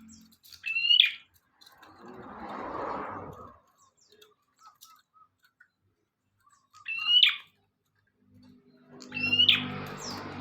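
Prenjak (a prinia) calling: three loud, sharp, sweeping chirps, about a second in, about seven seconds in and near the end. A rushing noise swells in between, and a low hum comes in near the end.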